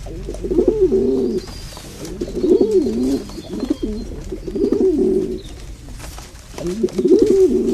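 A bird's low, warbling calls, each about a second long, repeated four times.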